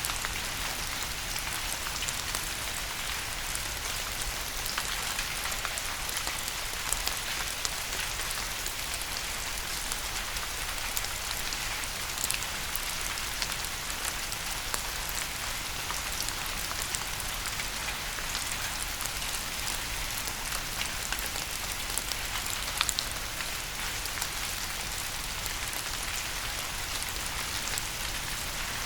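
Steady rain: an even hiss with many individual drops ticking on a surface, and now and then a louder drip.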